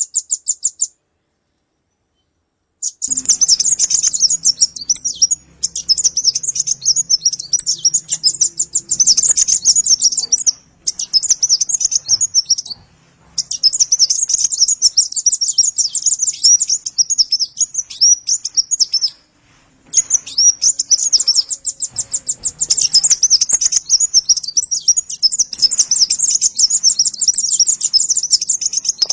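Konin bird song played as a lure recording: long runs of rapid, high-pitched chattering trills broken by short pauses. It starts after about three seconds of silence.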